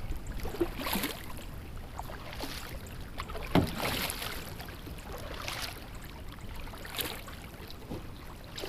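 Kayak paddle strokes dipping into and pulling through river water, a splash every second or two over a low rumble of wind on the microphone.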